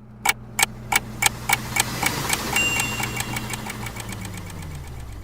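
A low mechanical hum with a regular sharp ticking over it, the ticks speeding up from about three to six a second; near the end the hum sinks in pitch and then cuts off.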